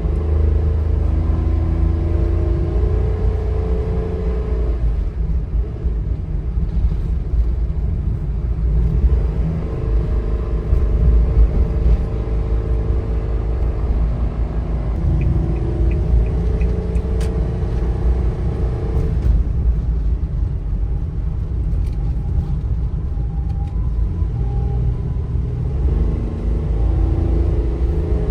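Kei truck driving: a steady low engine and road rumble, the engine's pitch rising and shifting as it pulls away and changes speed a few seconds in, around the middle and again near the end.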